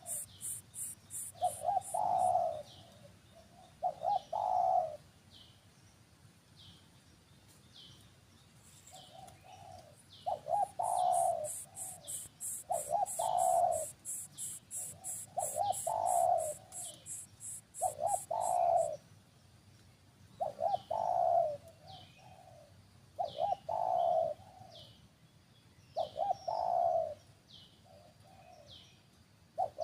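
A bird cooing in deep, repeated phrases every two to three seconds, with short high chirps about once a second. A fast, high pulsing trill runs through the middle stretch.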